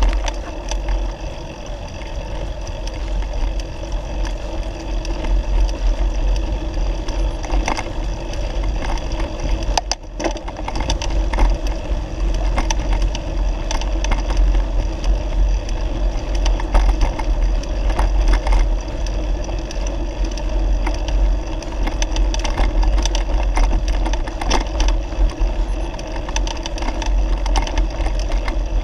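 A bicycle ridden along a rough dirt forest track, making a steady rolling noise with frequent short knocks and rattles as it goes over bumps, and a heavy low rumble throughout.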